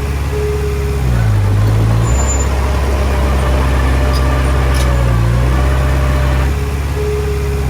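Heavy diesel engine of an earthmoving machine running, its pitch dipping and recovering twice as it takes and sheds load. A short higher tone sounds near the start and again near the end.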